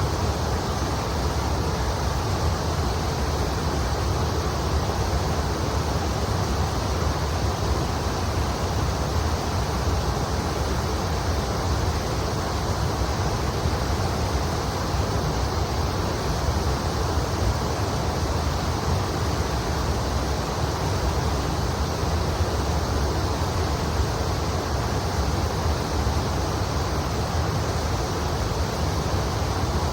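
River water flowing steadily: a constant, even rush with a low rumble underneath.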